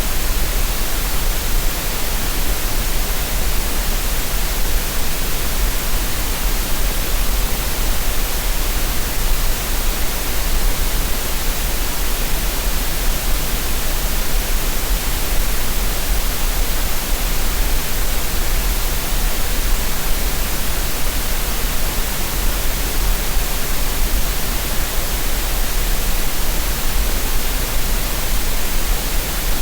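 Steady green noise for relaxation and tinnitus masking: an even, unchanging hiss with no events in it.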